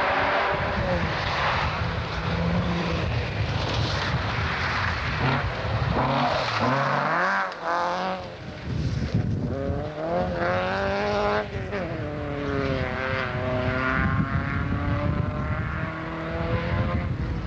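Rally car engine revving hard as the car drives past on gravel, its pitch climbing and falling back several times with throttle and gear changes.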